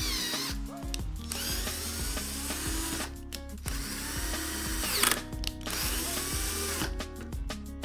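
Electric drill boring into the hub of an aluminium XL20T timing pulley, cutting in stretches with short pauses, over background music.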